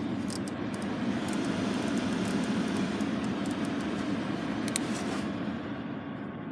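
Car climate control blower fan running steadily, a continuous rush of air through the dashboard vents, with a few faint clicks.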